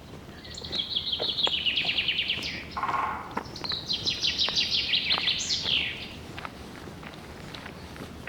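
A songbird singing two fast trills of rapidly repeated notes, each sliding down in pitch over about two seconds, with a short lower note between them. Faint footsteps sound on the trail.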